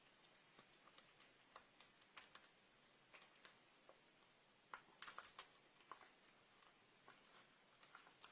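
Faint, scattered light clicks and taps of small stamping supplies being handled and set down on a craft table, with a quick cluster of clicks about five seconds in.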